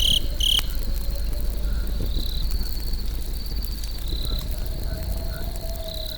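Crickets chirping in steady, pulsing high trills over the low, steady crackle and rumble of a campfire.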